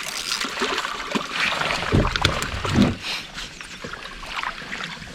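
A landed trout flopping in a plastic kayak, with knocks against the hull and water dripping and splashing, loudest about two to three seconds in.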